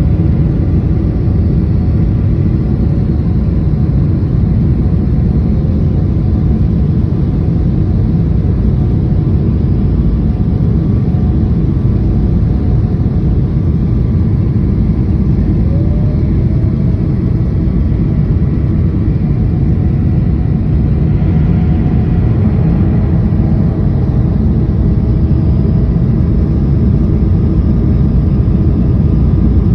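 Steady low rumble of a Boeing jet airliner's engines and rushing air heard from inside the passenger cabin, with a faint steady hum over it.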